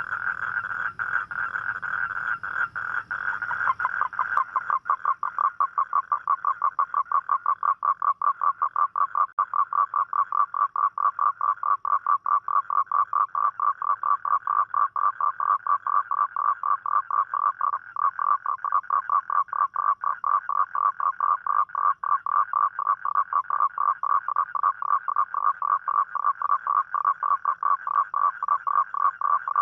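A toad calling: a long, unbroken trill of rapid pulses. About four seconds in, a louder, slightly lower-pitched trill takes over and runs on steadily.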